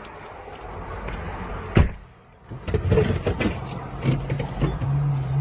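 Car road noise, broken by a sharp bang about two seconds in, then a run of knocks and a steady low hum that starts near the end.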